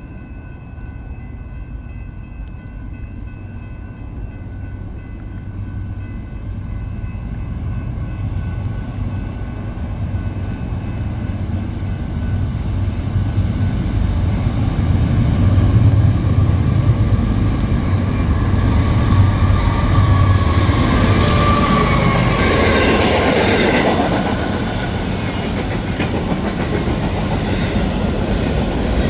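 A train approaching and passing, its rumble growing steadily louder, with wheels clacking over rail joints. A faint high ringing repeats about twice a second in the first half, and a falling whine comes near the loudest part.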